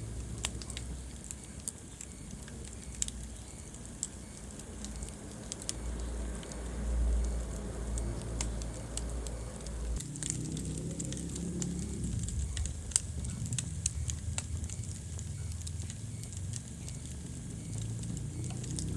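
Wood fire burning in a fireplace, crackling with irregular sharp pops over a low rumble of the flames; the rumble changes abruptly about halfway through.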